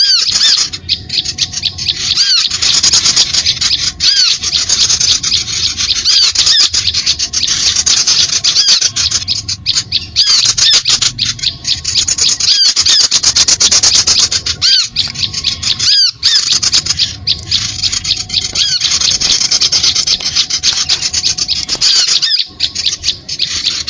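Bird-lure recording of many small birds chirping densely and rapidly in high-pitched calls, with short breaks every few seconds.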